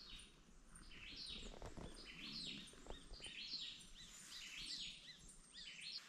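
A bird singing faintly: a long run of short, high, rising-and-falling whistled notes, about three a second, over quiet forest ambience.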